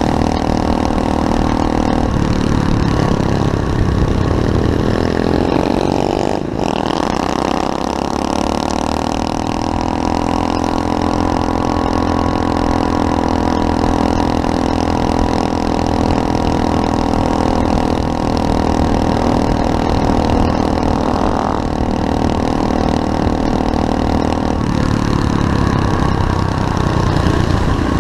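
A 125cc single-cylinder four-stroke pit bike engine runs throughout. Its note dips and then climbs about six seconds in, holds steady for a long stretch, and changes pitch again later on.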